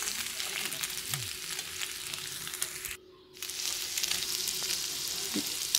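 Boiled, shredded chicken frying in ghee in a pan, sizzling and crackling steadily while a slotted metal spatula stirs it. The sound breaks off for about half a second midway, then carries on.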